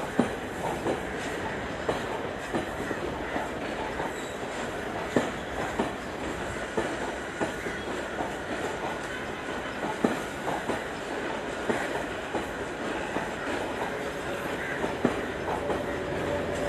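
Coaches of a Class S11 diesel multiple unit rolling past at low speed: a steady rumble of wheels on rail, with sharp clicks, often in pairs, about one a second, as the bogies cross rail joints and points. Near the end a steady hum sets in and the sound grows louder.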